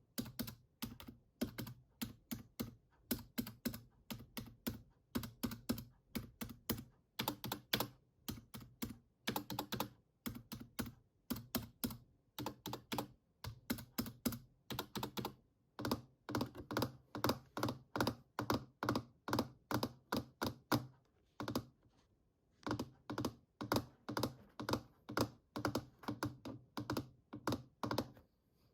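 Fingers tapping rapidly on plastic keys in quick runs of clicks, several a second, with brief pauses.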